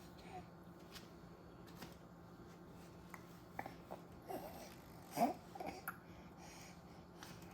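A baby's brief babbling vocal sounds, a few short high-pitched squeaks that bend in pitch from about four to six seconds in, the loudest just after five seconds, with a few faint clicks around them.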